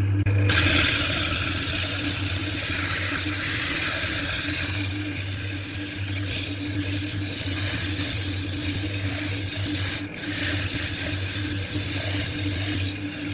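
Wood lathe running with a steady motor hum, the spinning workpiece hissing under a tool held against it, with a brief dip about ten seconds in.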